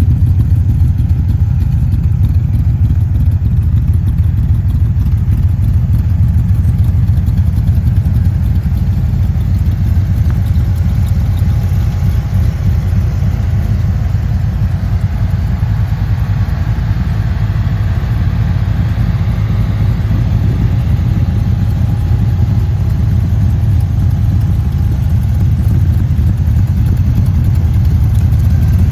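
A Dax Cobra replica's 6.3-litre Chevrolet stroker V8 idling steadily, a deep, even exhaust note with no revving.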